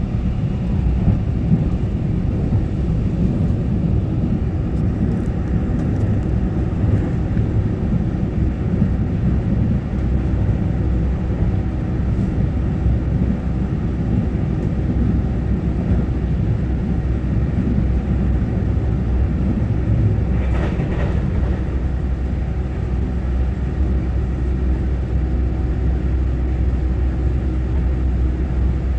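Inside a Taiwan Railway EMU900-series electric multiple unit (set EMU923) running between stations: a steady low rumble of wheels on rail and the traction motors. A brief sharper, brighter sound comes about two-thirds of the way through.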